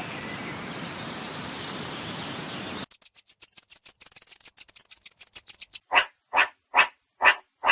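Animal sounds in three abrupt parts: a dense noisy stretch, then rapid chattering clicks about three seconds in, then a run of loud, evenly spaced calls about two a second near the end.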